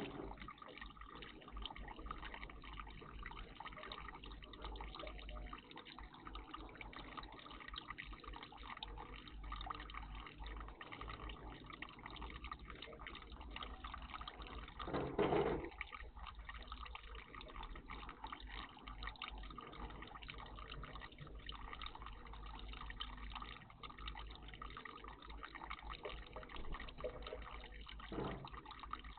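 Water trickling steadily in a garden bird bath, with a brief louder sound about halfway through.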